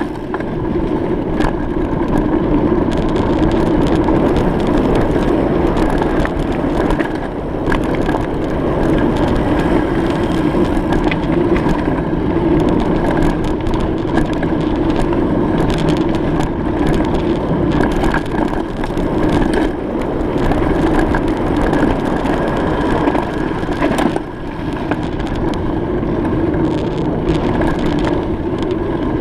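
Bicycle rolling over a rough surface: a steady rolling noise with constant small crackles, clicks and rattles from the tyres and bike.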